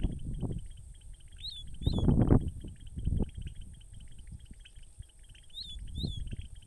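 Seedeater birds calling: two pairs of short, sharp rising-and-falling notes, one pair early and one near the end, over a steady background chatter of birds. A low rumble on the microphone is loudest about two seconds in.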